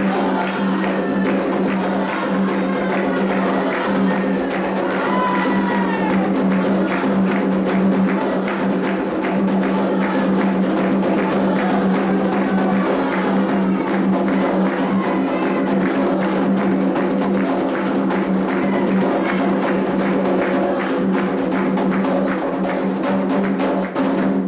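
Candomblé atabaque drumming with a bell, playing the rhythm for the orixá Iansã, with voices singing over it. The music stops abruptly at the end.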